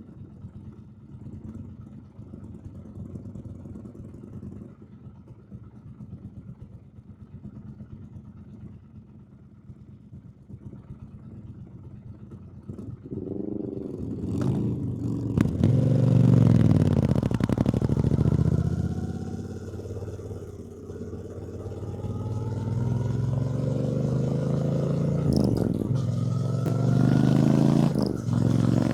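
Triumph Bonneville T120's 1200 cc parallel-twin engine: running low and steady for about the first twelve seconds, then opening up and accelerating, its pitch climbing again and again as it pulls through the gears.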